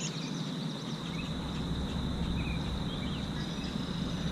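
Outdoor lakeside ambience: a steady, high-pitched insect buzz with short scattered bird chirps over a low rumble of wind and water noise.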